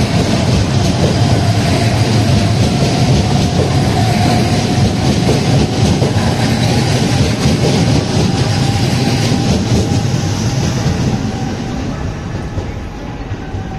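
Electric commuter train running out of the station: wheels clattering over the rails with a steady low rumble and a faint hum, fading away over the last few seconds.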